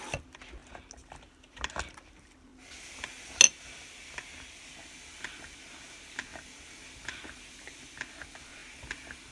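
Scattered light clicks and taps of small objects being handled, with one louder click about three and a half seconds in.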